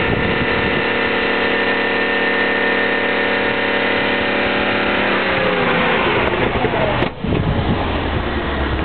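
BMW M60B40 4.0-litre V8 running at a steady, raised speed, then its revs drop over about two seconds. An abrupt break comes about seven seconds in, followed by a rougher low rumble.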